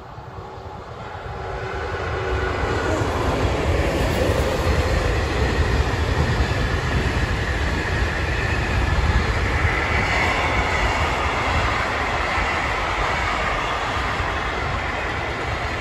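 Intermodal container freight train approaching and running past, growing louder over the first two seconds or so. It then settles into a steady deep rumble with the rush of container wagons rolling by.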